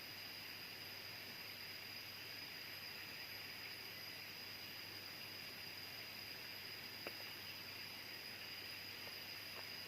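Faint jungle ambience: a steady high-pitched insect drone over an even hiss, with a faint click about seven seconds in and another near the end.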